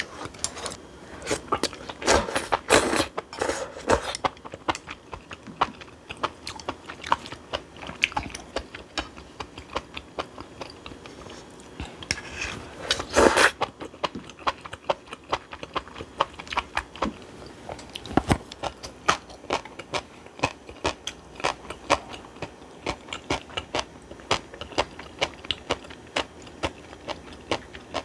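Close-miked eating: irregular chewing and crunching with many small sharp clicks, with louder bursts in the first few seconds and the loudest one about thirteen seconds in.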